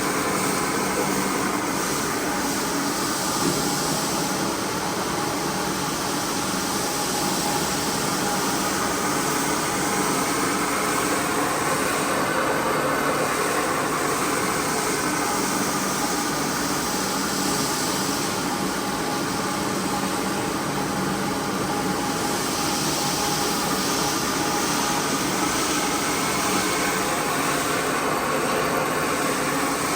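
Carpet-cleaning machine's motor running steadily, a continuous hum and hiss with no pauses.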